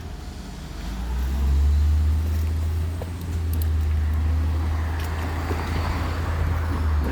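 Steady low rumble of wind buffeting a helmet-mounted microphone while riding a bike, mixed with a garbage truck running nearby. The rumble swells about a second in.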